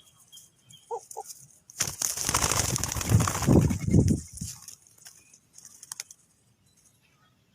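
A dove flapping its wings hard for about two and a half seconds, a loud fluttering rush, preceded by two short low notes about a second in.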